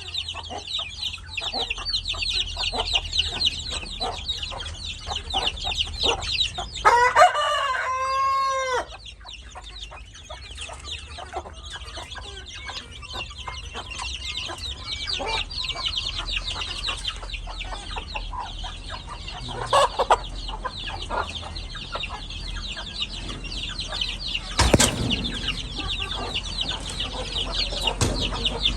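A rooster crows once, about seven seconds in, a loud call of just under two seconds. It sounds over a continuous dense high-pitched chirring, with scattered soft clucks and clicks and a sharp knock near the end.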